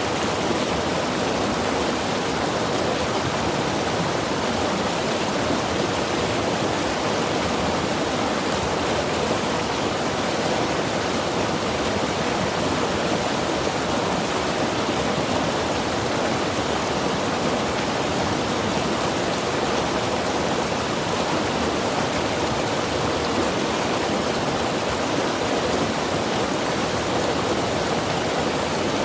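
Mountain river rushing steadily over rocks, a constant full rush of moving water with no breaks.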